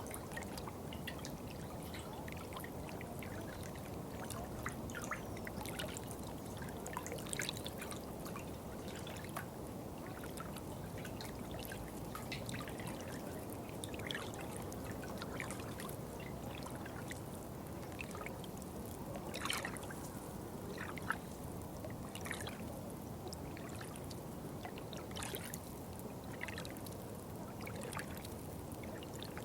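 Water trickling and splashing steadily, with many small, sharp drips and splashes scattered over a constant low rush.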